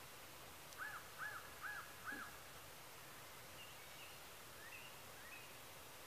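Faint bird calls: one bird gives four short arched calls about half a second apart, then a few faint higher chirps follow later.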